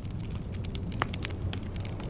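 Wood fire crackling in a fireplace: many small, quick pops, with one louder pop about a second in, over a low steady rumble.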